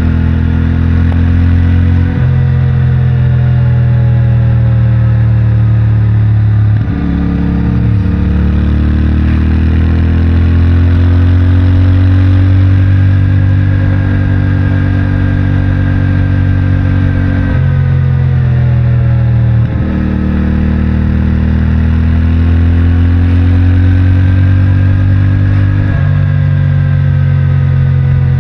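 CFMOTO 450MT's parallel-twin engine running through its stock exhaust under way, the note climbing slowly as the bike pulls. Five times the pitch drops sharply, as at a gear change, then climbs again.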